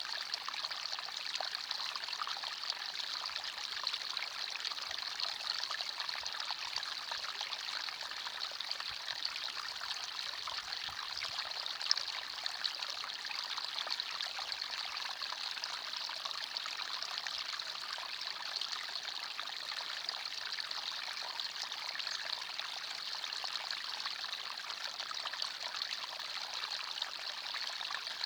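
Forest stream flowing steadily: water trickling and babbling over stones, an even splashing hiss with no breaks.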